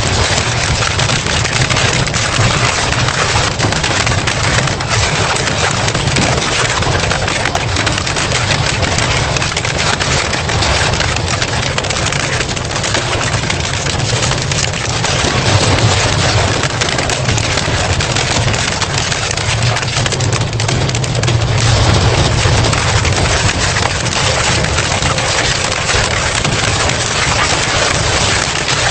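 Industrial double-shaft shredder grinding scrap metal: a dense, unbroken crackle of cracking and tearing over the steady low hum of the drive.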